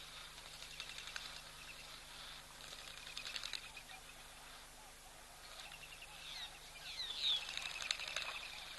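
Small birds chirping and chattering in runs of rapid clicky notes with short falling whistles, the loudest run coming a little after halfway, over a faint steady low hum.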